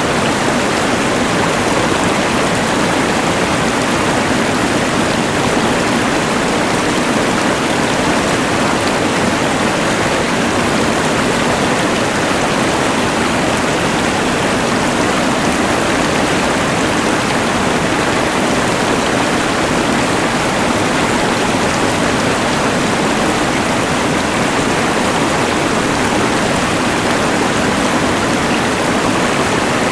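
Rushing mountain river mixed with the hiss of a LectroFan white noise machine, a steady, unbroken wash of water noise.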